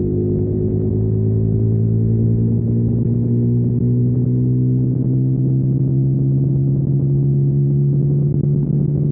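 2021 KTM Duke 125's single-cylinder four-stroke engine running through a Storm GP aftermarket exhaust while riding, its steady note rising slightly in pitch over the first few seconds and then holding. The recording sounds dull and muffled.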